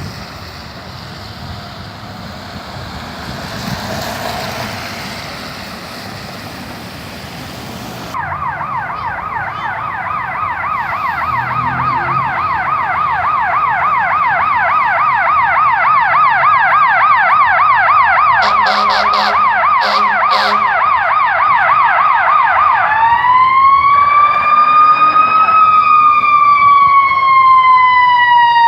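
Fire apparatus electronic siren, growing louder, over road noise. It cuts in about eight seconds in on a fast yelp, with a horn sounding briefly partway through, then switches to a slow wail that rises and then falls away.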